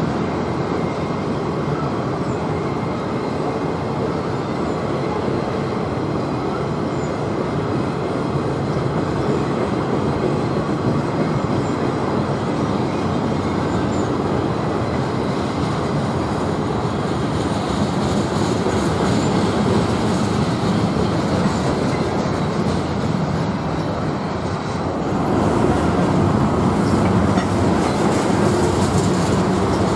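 Norfolk Southern freight train's cars rolling past: a steady noise of steel wheels running on the rails, growing louder about five seconds before the end.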